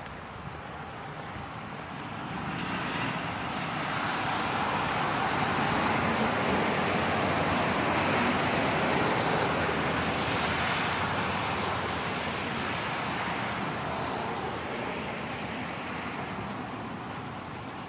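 A vehicle passing on a wet road: the hiss of tyres on water swells over several seconds, peaks, and slowly fades, over steady rain.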